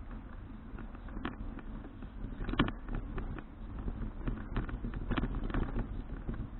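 Bicycle rattling over a rough road: irregular clicks and knocks, the loudest about two and a half seconds in, over a low rumble.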